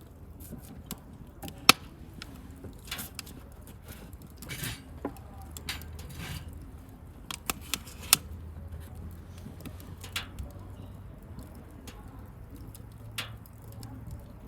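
Wood bonfire crackling, with irregular sharp pops, the loudest about two seconds in and again about eight seconds in, and a few short stretches of hiss in between.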